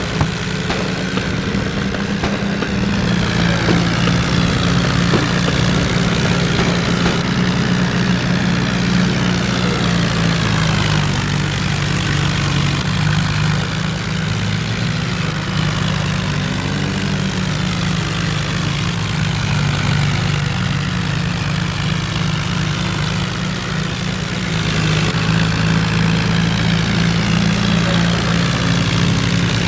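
Tractor diesel engines running steadily under heavy load as the tractors pull against each other in a tug-of-war. There is a strong low drone, and the higher engine tones slowly drift up and down in pitch.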